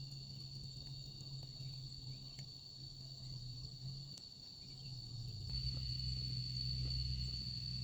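Insects, crickets or cicadas, trilling in one steady high tone, over a low hum that grows louder about five and a half seconds in.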